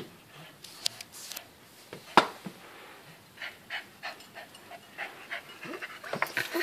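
Dog panting in quick, short breaths, with a few sharp clicks; the loudest click comes about two seconds in.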